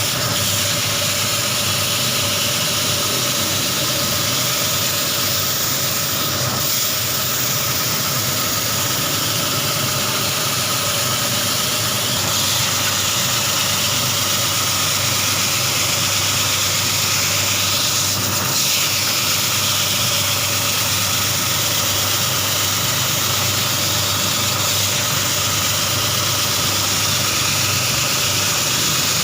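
Semi-automatic carpet washing machine running steadily: a constant motor hum with a few steady tones under a strong hiss.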